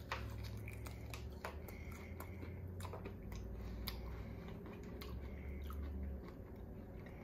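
A person biting into and chewing cooked squirrel meat: soft chewing with scattered small mouth clicks. A low steady hum sits underneath and stops about six seconds in.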